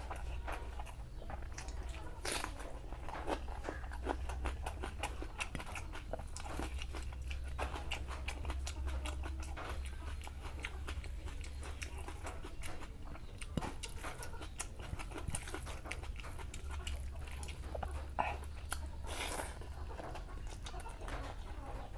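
Close-up eating sounds: a person chewing and biting into food, with many irregular clicks and crunches, over a steady low hum.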